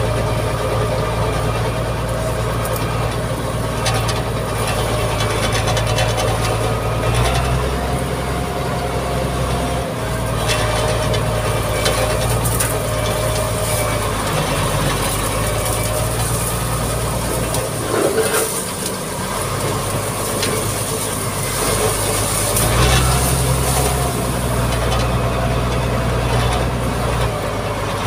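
Mitsubishi MG330 motor grader's diesel engine running steadily while it works, with clanking and rattling from the machine. About two-thirds through the engine note briefly drops, then picks up again.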